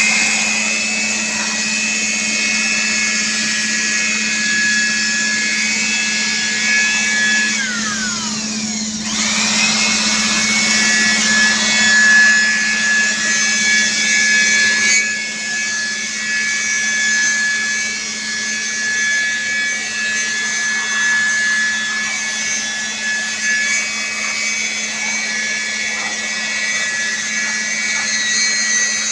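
Electric motor whining steadily over a low hum and a high hiss, like a power tool running during an AC outdoor unit service. Its pitch drops sharply about eight seconds in and climbs back up a second later, as if the motor briefly slowed and picked up again.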